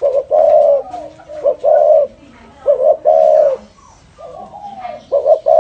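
Spotted dove cooing in the 'thổ rền' style, a call played to lure wild doves. It gives about four low phrases, each a short note followed by a longer drawn-out coo.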